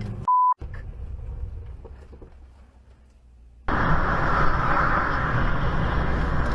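A short, sharp beep, then vehicle driving noise that fades down. About 3.7 s in it cuts suddenly to louder, steady car road and engine noise.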